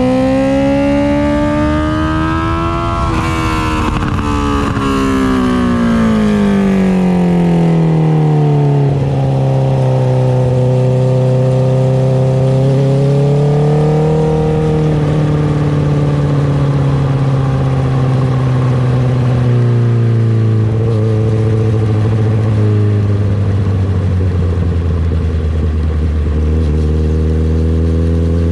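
Honda CB650R inline-four engine through an Akrapovic titanium exhaust. It climbs in revs for the first few seconds, then winds down, runs at steady revs for a while, picks up slightly midway and slowly drops back to low revs near the end.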